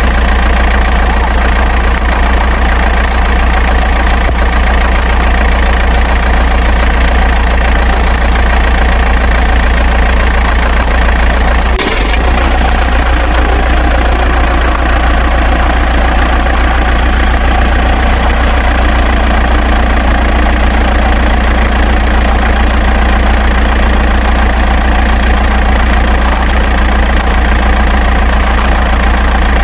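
Engine idling steadily and evenly, with one short click about twelve seconds in.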